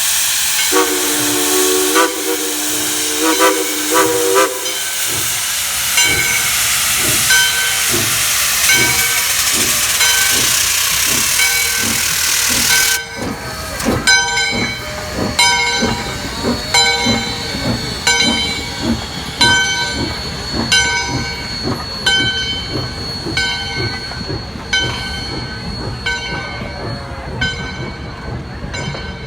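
Steam locomotive getting under way. A multi-tone steam whistle blows for a few seconds about a second in, over loud hissing steam. The hiss stops suddenly about halfway through, and regular exhaust chuffs carry on as the train moves.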